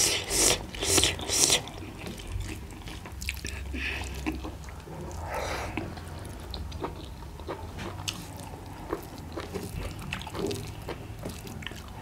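Mukbang eating sounds: a few loud, crisp bites in the first second and a half, then quieter chewing and small wet mouth clicks.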